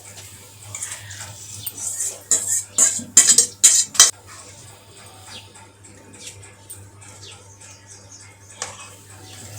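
A metal utensil clanking and scraping against a kadai as the marinated chicken is stirred. The sharpest strikes come between about two and four seconds in, followed by lighter scattered taps.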